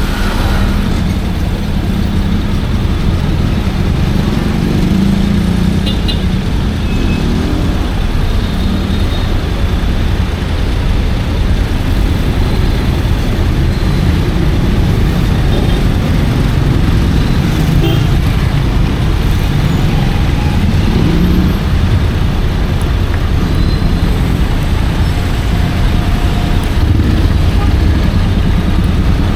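Honda X-ADV 750 being ridden on the road: a loud, steady low rumble of engine and road noise.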